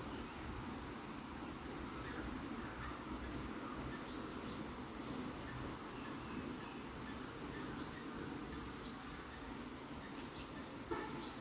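Steady high-pitched insect drone, cricket-like, over a low hiss, with faint short chirps scattered through it and one sharp click near the end.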